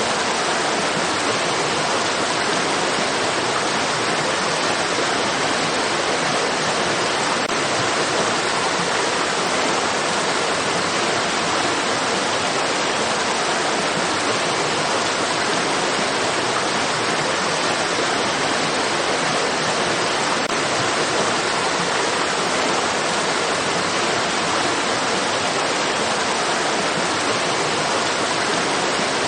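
Stream water rushing in a steady, unchanging hiss.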